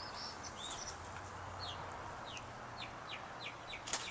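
A bird chirping in the background: a few arched chirps, then a series of short, high notes sliding downward about three a second. There is a sharp click just before the end.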